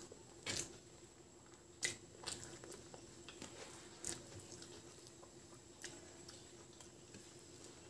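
Chewing mouthfuls of rice by hand, with wet mouth smacks and sharp clicks every second or two, and fingers squishing rice on a paper plate.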